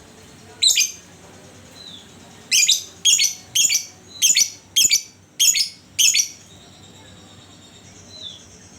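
A lovebird calling: one short, loud call, then a run of seven more about two a second, with a couple of faint short falling chirps in the pauses.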